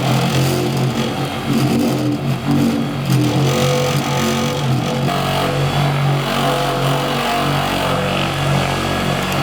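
Electric power tool with a buffing pad running continuously, its motor pitch wavering as the pad is pressed against the toolbox surface.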